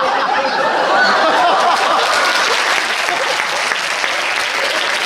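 Theatre audience applauding, with laughter and voices over the clapping in the first couple of seconds before the clapping carries on alone.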